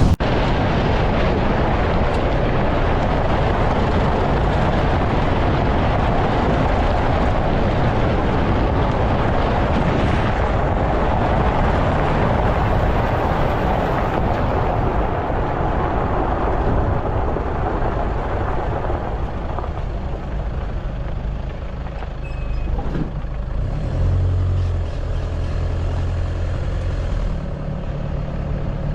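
A motor vehicle driving: steady engine and road noise. After about twenty seconds it grows quieter, leaving a low steady engine hum as the vehicle slows.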